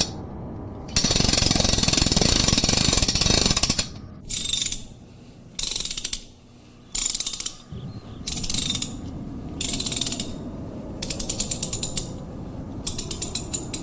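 Mechanical clattering and ratcheting in a series of bursts, each about a second long with short pauses between, ending in quick runs of rapid clicks.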